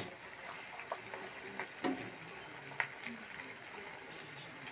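Rice-flour malpua frying in hot oil in a shallow pan: a steady sizzle with scattered crackles, and a sharp click of the spoon against the pan at the start.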